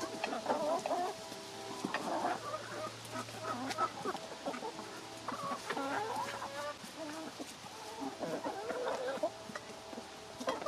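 Chickens clucking and calling over one another while they feed, with scattered sharp ticks among the calls.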